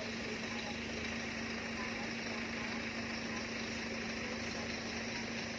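Steady machine hum with one constant tone, over steady background noise.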